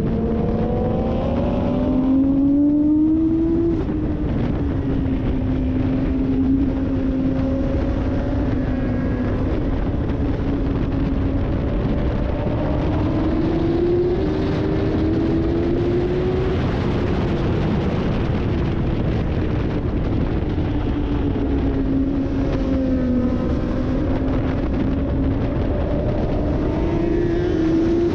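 Sport motorcycle engine heard onboard at track speed, under a steady rush of wind noise. Its note climbs as it accelerates about two seconds in, again a little before the middle and near the end, and falls once about three quarters of the way through as it slows.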